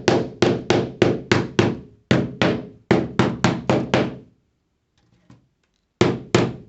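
Hammer tapping staples down through expanded metal lath into a wooden panel: a quick run of sharp blows, about three a second. The blows pause a little after four seconds in and start again near the end.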